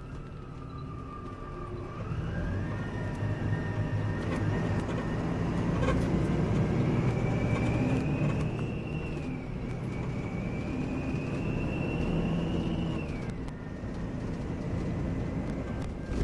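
Volvo B9R coach's diesel engine pulling under load, with a rumble and a high whine that climbs steadily as it accelerates and drops sharply at gear changes about nine and thirteen seconds in.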